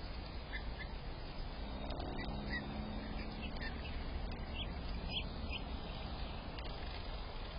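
Small bird giving a series of short, high chirps at a nest on a front-door wreath, over a steady low background rumble.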